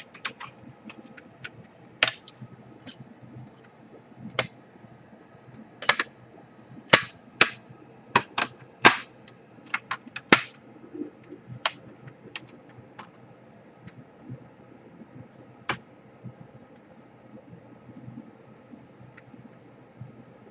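Irregular sharp clicks and taps of a screwdriver and small laptop parts being handled while the cooling fan and motherboard are screwed back into the laptop chassis. The clicks come thickest in the middle and thin out near the end.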